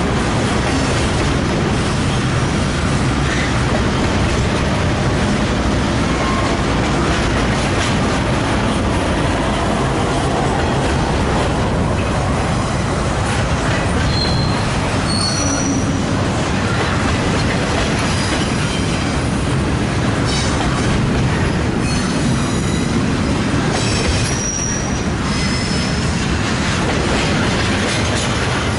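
Railroad train rolling past: steady, loud noise of wheels on rail, with a few short, high-pitched wheel squeals around the middle and again near the end.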